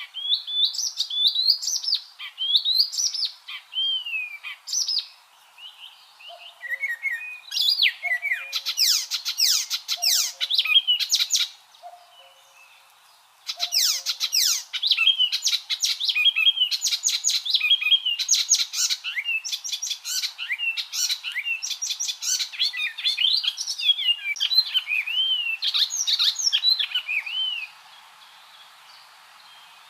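Icterine warbler singing a fast, varied song of chirps, quick trills and sliding whistled notes. The song pauses briefly about twelve seconds in and stops shortly before the end.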